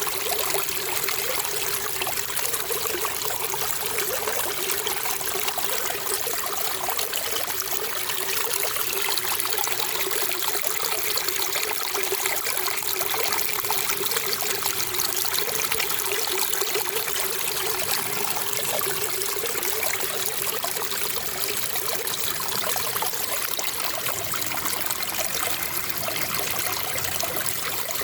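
Water flowing and trickling steadily, like a small stream or brook running over stones, an even rushing sound that doesn't change.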